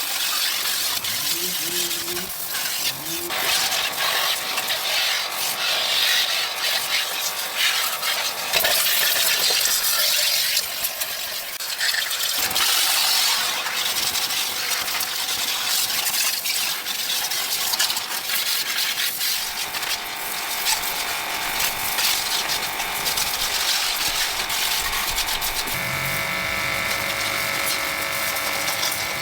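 Workshop noise: small metal parts and tools clinking over a steady hiss, with a small electric motor starting to hum steadily near the end.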